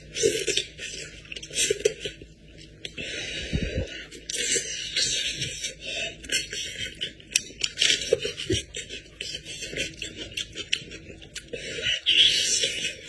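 Close-up eating sounds of goat-head meat being chewed: wet mouth clicks, smacks and slurps in a rapid, irregular run.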